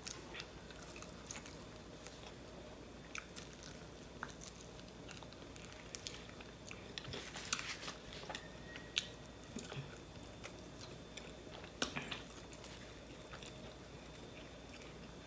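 Close-miked chewing and biting of fried buffalo chicken wings, with scattered short crunches and clicks.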